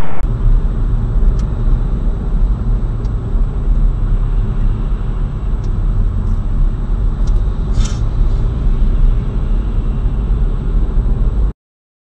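Steady low rumble of a vehicle driving, recorded on a dashcam, with a few faint clicks. It cuts off abruptly near the end.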